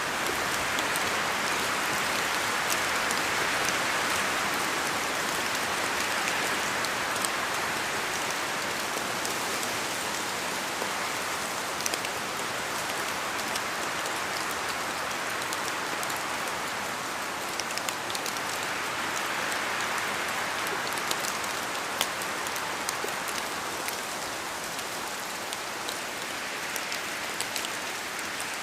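Steady rain with scattered sharp drop hits, the hiss swelling and easing slowly as wind gusts through.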